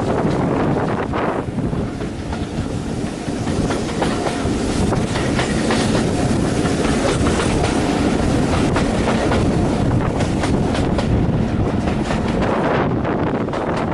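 Railway carriage running along the track, a steady rumble with the wheels clicking over rail joints, the clicks coming thickest a few seconds before the end.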